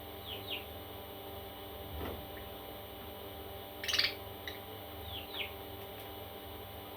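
Parrot chicks calling: two quick falling chirps near the start, a louder harsh squawk about four seconds in, then two more falling chirps. A steady low hum runs underneath.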